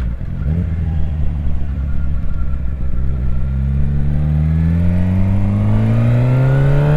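Suzuki GSX-R 750 motorcycle's inline-four engine being ridden. It holds a steady note for about three seconds, then accelerates, its pitch climbing steadily through one gear.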